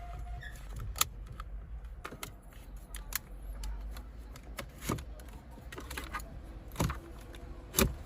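Irregular sharp clicks and knocks of hard plastic and metal parts being handled and fitted in a car dashboard. A handful of them stand out louder, a second or two apart, the loudest near the end.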